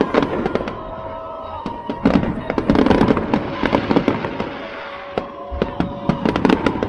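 Fireworks going off: a rapid, continuous run of bangs and crackling, densest about two to four seconds in and again near the end.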